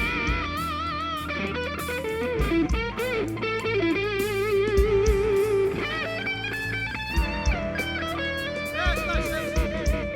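Live band playing an instrumental break: an electric guitar leads with held, vibrato-laden notes and melodic runs over bass and drum beats.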